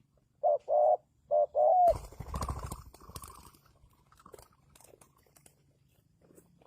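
Spotted dove cooing: four notes in two short-then-long pairs. The last note runs straight into about a second of rustling noise.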